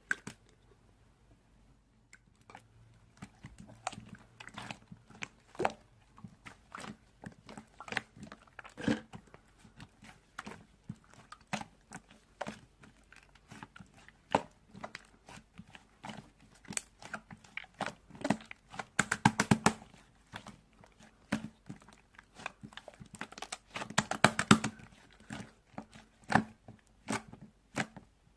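Slime being squished and pressed by hand, giving irregular sharp clicks and pops, with two short runs of rapid crackling about two-thirds of the way through.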